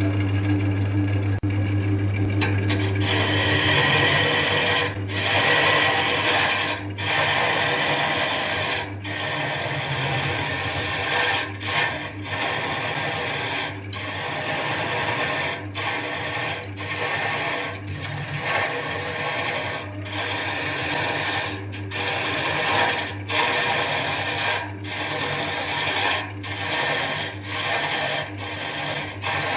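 Wood lathe motor humming steadily. About two seconds in, a tool starts cutting the spinning wood with a loud hissing scrape. The cut breaks off briefly every second or two as the tool is lifted and set back.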